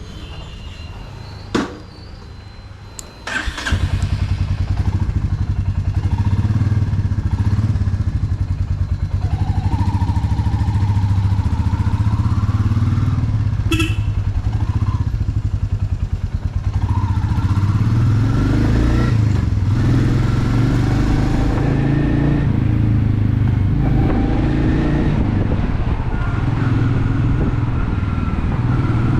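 Royal Enfield Meteor 350's single-cylinder engine, quieter at first with a couple of sharp clicks, then loud and steady from about three and a half seconds in. Its pitch rises several times as the bike pulls away and accelerates.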